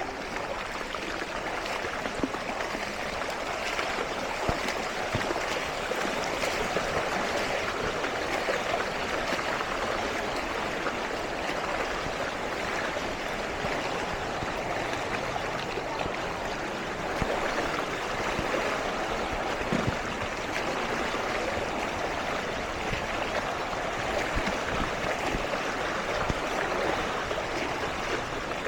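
Floodwater flowing, a steady rushing noise without letup.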